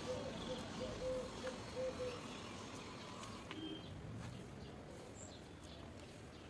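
Garden birdsong: a bird repeats short low notes in a quick series for the first two seconds, with small birds chirping high and sparsely throughout.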